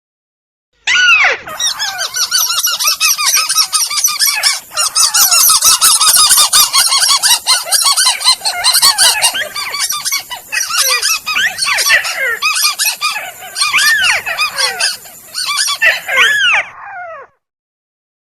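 Bird-lure recording of tikusan (crake) calls: a dense chorus of overlapping, arching, harsh call notes. It starts about a second in and breaks off about a second before the end.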